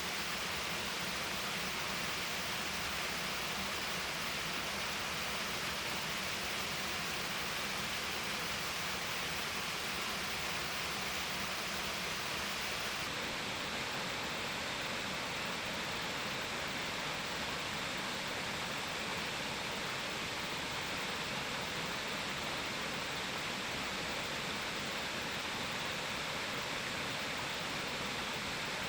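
Steady rush of a mountain stream's water flowing over rocks, an even noise with no pauses; its hiss turns a little duller about thirteen seconds in.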